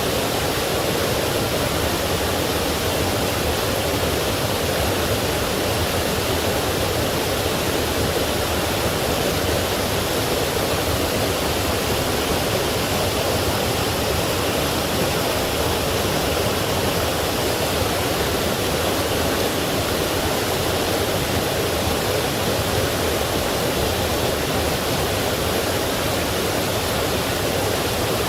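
Forest stream rushing steadily over small falls and rocks, a dense even roar of water.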